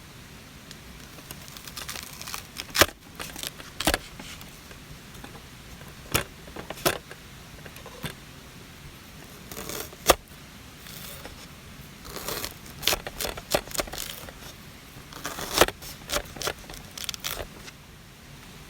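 Objects being handled: scattered sharp clicks and clinks, irregularly spaced, mixed with short bursts of rustling and crinkling, over a steady background hiss.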